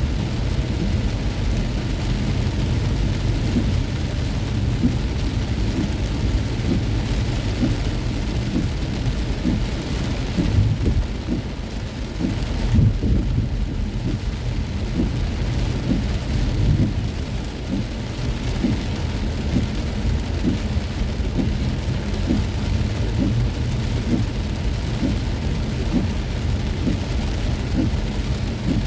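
Heavy rain drumming on a moving car in a steady patter of drops, over a constant low rumble of the car and road.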